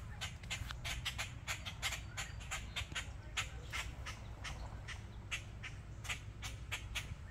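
Birds scolding a cat with rapid, repeated short alarm calls, about three or four a second, over a low steady rumble.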